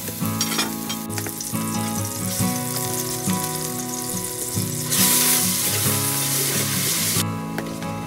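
Red spice paste frying in hot oil in a metal pot, a steady sizzle that grows much louder and fuller about five seconds in for a couple of seconds.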